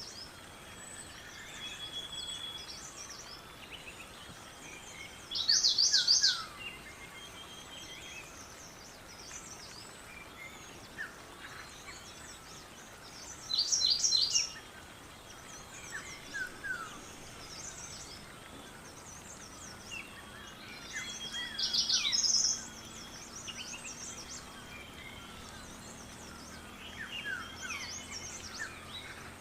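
Several birds singing and chirping over a steady outdoor background. One louder song of quick, high notes comes back about every eight seconds, with softer, down-slurred chirps in between.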